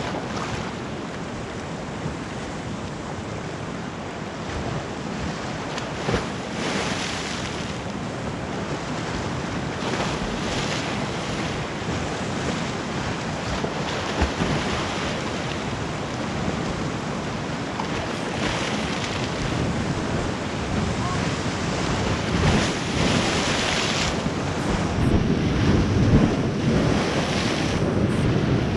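Sea waves crashing against a rocky shore and washing back, swelling every few seconds, with wind buffeting the microphone.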